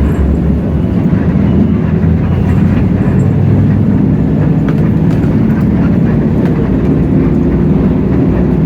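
Hino J08E-VN inline six-cylinder diesel engine of a city bus running steadily under way, with road and cabin noise, heard from inside the bus.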